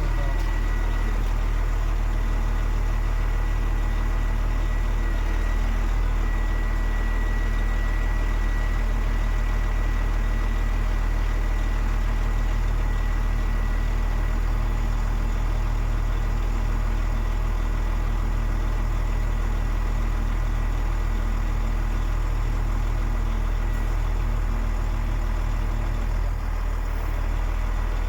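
DAF XF 105.460 truck's 12.9-litre six-cylinder diesel idling steadily at an even pitch, with a thin steady high whine above it.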